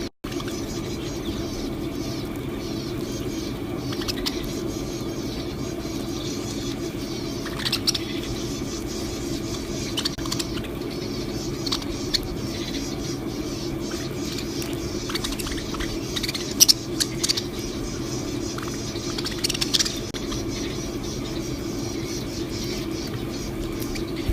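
Small cage birds giving scattered short, high chirps over a steady low hum.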